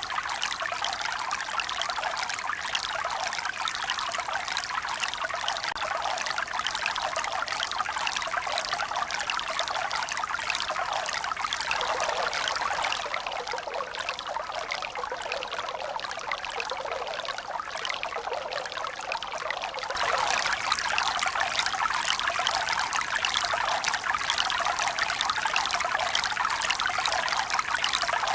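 Steady rush of running water, trickling and pouring without any rhythm of breaking waves. It dips a little about halfway through, then turns suddenly louder about two-thirds of the way in.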